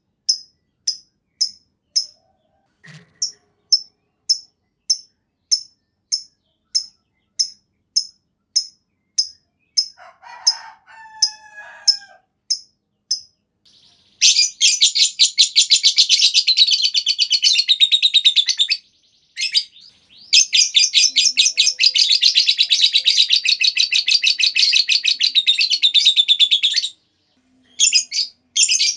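Lovebird giving single high chirps about twice a second, then breaking into two long, rapid chattering trills (the 'ngekek panjang'), the second longer than the first, before the single chirps resume near the end.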